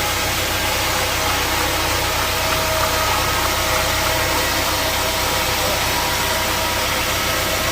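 Sawmill saw machinery running steadily: an even, loud mechanical noise with a constant low hum and a steady mid-pitched tone, with no change in speed.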